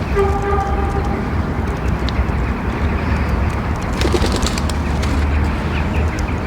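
A bird gives one steady, pitched call lasting about a second at the start, over a continuous low rumble, with a few faint clicks about four seconds in.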